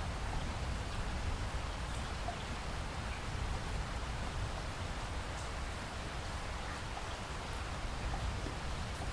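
Steady rainfall, an even hiss of rain with a few faint individual drops.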